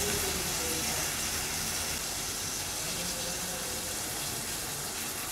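Hot oil and sautéed onions sizzling in a kadai as thick ground onion-tomato paste is poured in on top, a steady hiss that eases a little about two seconds in.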